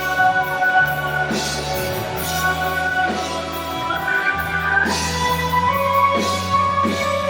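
A live rock band playing an instrumental passage: long held guitar notes over a bass line and a steady drum beat.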